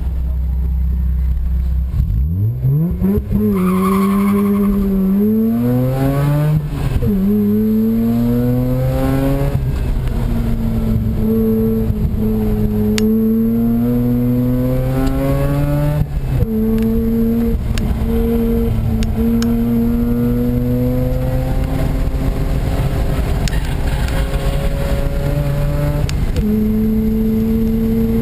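Mazda RX-8's two-rotor rotary engine, fitted with an aftermarket intake and header-back exhaust, heard from inside the car under hard track driving. It runs low and steady, then about two seconds in revs up sharply and keeps climbing and dropping in pitch as the car works through gear changes.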